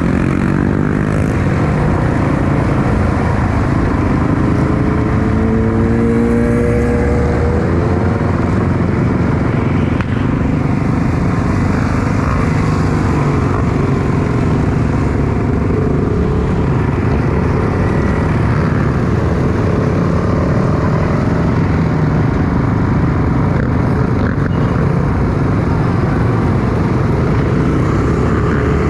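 Motorcycle engines running loudly and continuously, with one engine revving up in rising pitch during the first several seconds.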